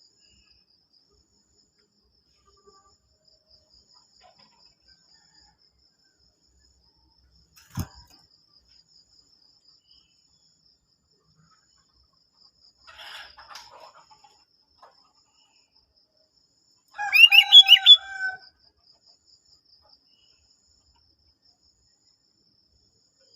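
Sooty-headed bulbul chirping in a short loud burst about 17 seconds in, with a rooster crowing at the same time, over a faint steady high trill. A single sharp knock about 8 seconds in and a few faint calls around 13 seconds.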